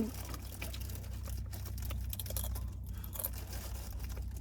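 Scattered small clicks, crinkles and rustles of food and wrappers being handled at a table, over a steady low hum.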